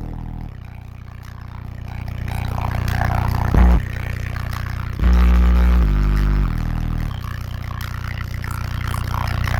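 Subwoofers of a DC Audio–powered car audio system playing a bass-heavy track. Long, very low bass notes step down in pitch in a repeating pattern, with a short hard bass hit between them.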